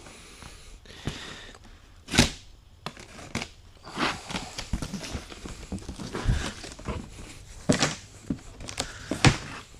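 Cardboard packaging being handled and opened: irregular rustling, tearing and knocks, with a few sharper thuds about two seconds in and near the end.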